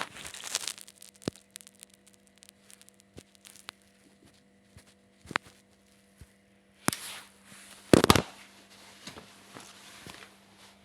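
Scattered clicks and knocks of parts and tools being handled, with a louder clatter about eight seconds in, over a steady low hum.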